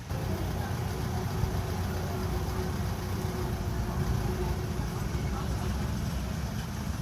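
An engine running steadily at an even pitch, with a low rumble.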